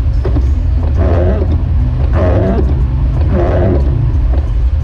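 Jeep Wrangler YJ on the move, a steady loud low engine and road rumble from inside the cab, with muffled midrange sounds rising over it about every second.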